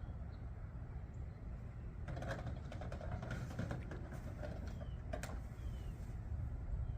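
A small bird giving short, falling chirps, three in the second half, over a low steady rumble, with a run of crackling, crunching noise in the middle.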